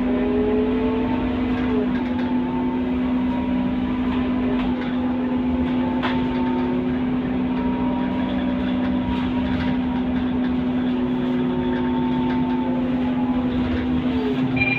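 Scania K230UB city bus under way: a steady engine hum with whining tones that slowly rise and fall in pitch as its speed changes.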